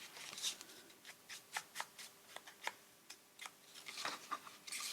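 Faint, irregular dry scuffs and light taps of an ink pad being rubbed and dabbed along the edge of a paper journal pocket.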